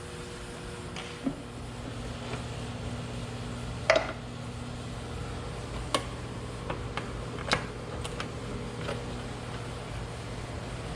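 Scattered metallic clicks and clinks of parts and hand tools being handled during engine reassembly, the loudest about four seconds in with a brief ring, over a steady low hum.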